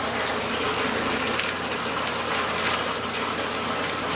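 Heavy hurricane rain pouring down steadily, a dense hiss of falling water.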